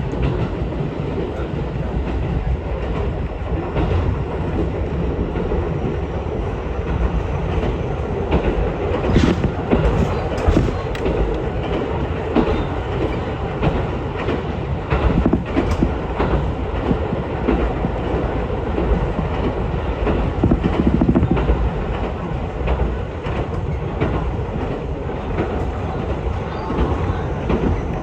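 Ichibata Electric Railway train running, heard from inside the car: a steady rumble of wheels on rail, with a few sharp clacks over rail joints about nine to ten seconds in and again a few seconds later.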